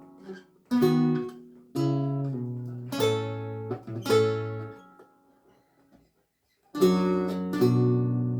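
Lute music: slow plucked chords that ring and fade. Four come about a second apart, then there is a pause of nearly two seconds, then two more chords near the end.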